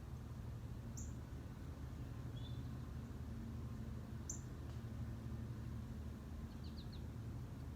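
Small birds calling: two short, high, falling chirps about three seconds apart, a lower note between them and a quick run of three notes near the end, over a steady low hum.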